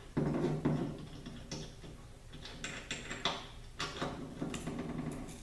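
Metal automatic-transmission parts handled and set down on a workbench: a series of separate knocks and clinks, the loudest just after the start.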